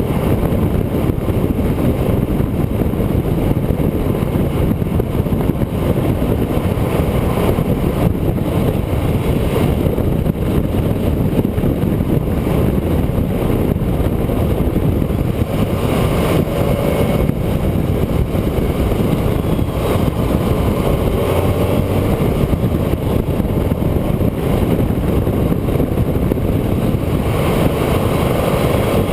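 A road vehicle driving at speed: steady engine and road noise, with the engine note shifting slightly around the middle and again near the end.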